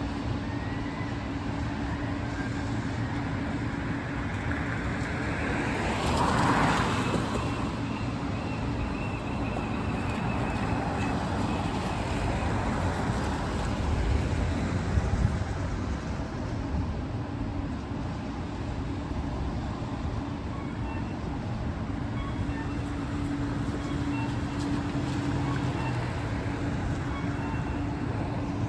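City street traffic in the rain: a steady hum of engines over an even wash of noise, with a vehicle passing close about six seconds in and another around fifteen seconds.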